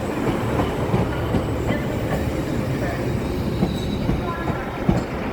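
Train rumbling on the track at a station, with a few sharp wheel knocks over the rail joints.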